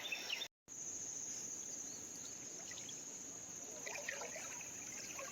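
Water trickling and splashing softly against a steady high drone of insects, with a brief total dropout about half a second in.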